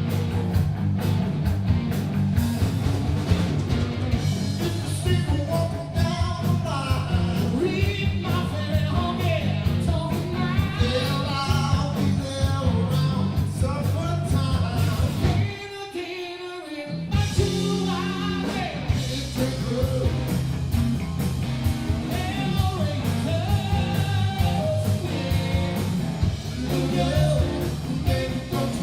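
Southern rock song with a sung lead vocal over electric guitar, bass and drums. About halfway through, the band briefly drops out for a moment, then comes back in.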